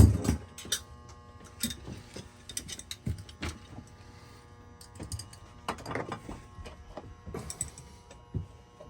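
Scattered metal clicks and knocks of a wrench and hands working loose the fuel line fitting on a Racor fuel filter/water separator, with a sharp knock right at the start.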